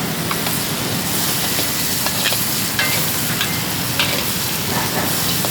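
Chicken, peppers and green onion sizzling in a hot pan as they are stir-fried, with a utensil clicking against the pan a few times.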